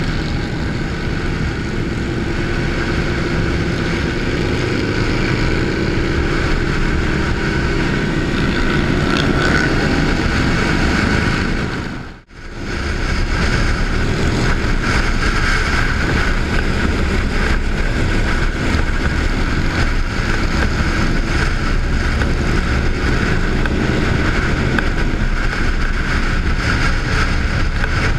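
Motorcycle running at road speed with heavy wind noise on the microphone. About twelve seconds in, the sound cuts out for a moment and then carries on.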